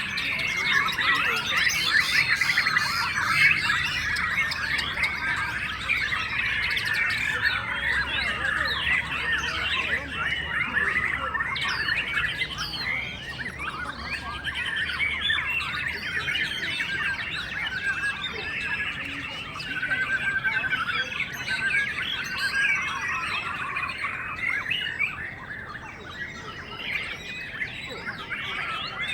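Many caged white-rumped shamas singing at once in competition, a dense, overlapping chorus of quick whistles and chirps that eases off a little near the end.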